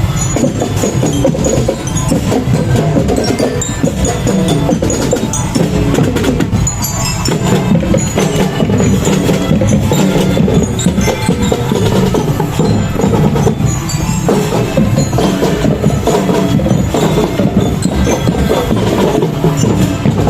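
Elementary-school marching band playing: drums struck in a busy, unbroken rhythm with short high bell-like notes over them.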